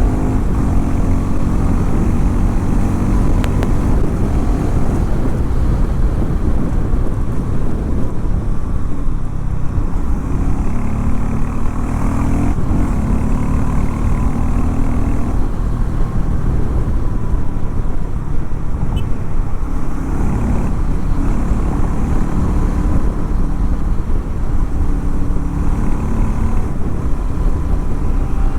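Harley-Davidson X440 T's single-cylinder engine running, its pitch rising and falling several times as the revs change, with a sharp break about twelve seconds in before the note climbs again.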